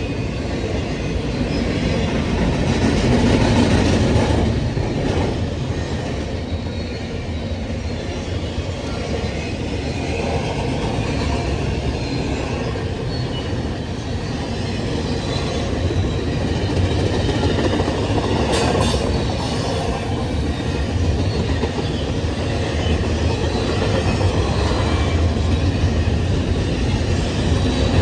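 Union Pacific freight train rolling past, a steady loud rumble of wheels on the rails that swells about 4 seconds in and again near the end.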